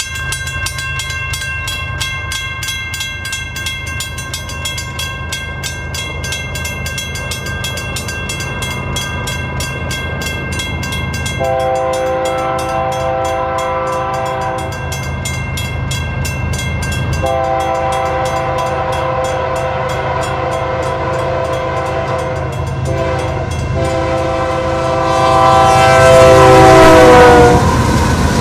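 Grade-crossing bell ringing rapidly over the rumble of approaching ES44AC diesel locomotives. About eleven seconds in, the locomotive horn sounds the crossing signal in long blasts. The last blast is the loudest and drops in pitch as the locomotives pass the crossing.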